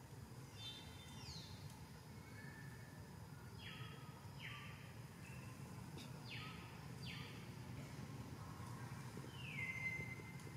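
Faint whistled bird calls every few seconds, several sliding down in pitch and the loudest near the end, over a steady low background rumble.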